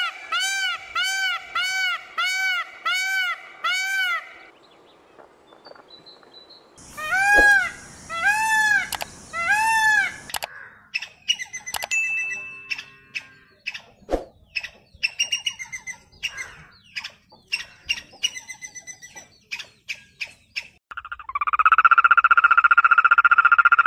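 A peacock gives a quick series of rising-and-falling calls, about two a second, then three louder calls. A patter of clicks and short chirps follows. Near the end a small green tree frog starts a loud, steady, fast-pulsed trill.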